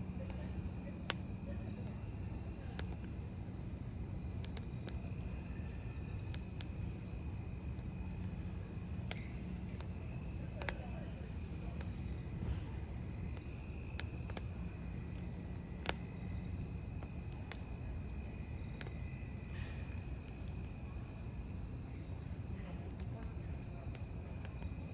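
Crickets trilling steadily over a wood fire burning, with a low rumble and sharp crackles and pops of the burning logs scattered throughout.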